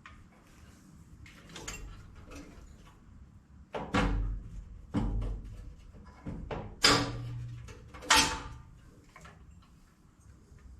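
Four loud knocks and clanks spread over about four seconds, each ringing out briefly, with fainter taps and rustling between them, from parts and tools being handled on a tractor.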